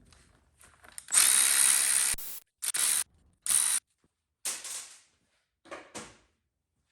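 A power tool running in short bursts, one longer run of about a second followed by four brief spurts, as it backs out the three 1/2-inch cam sprocket bolts on a small-block LT1 V8.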